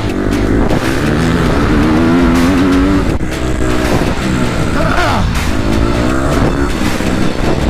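Motocross dirt bike engine revving hard, its pitch rising and falling repeatedly as the rider works the throttle and shifts.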